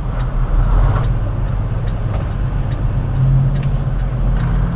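Semi-truck diesel engine running steadily, a low hum, with a faint light ticking about twice a second.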